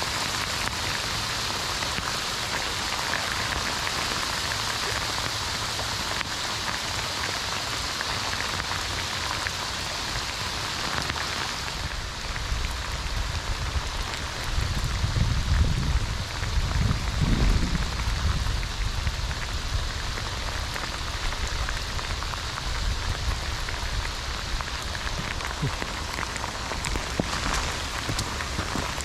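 Heavy rain pouring down: a steady hiss dotted with the patter of drops. A deeper rumble swells and fades about halfway through.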